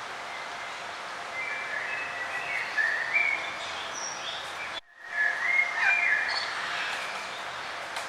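Songbirds singing in short warbling, gliding phrases over a steady outdoor hiss. The whole sound cuts out for a moment about five seconds in, then the singing resumes.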